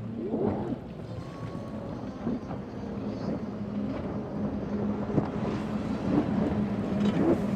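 Boat engine running with a steady low hum, with wind noise on the microphone.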